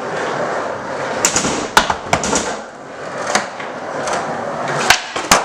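Skateboard wheels rolling on a hard floor, with several sharp clacks of the board popping and landing, the loudest two close together near the end.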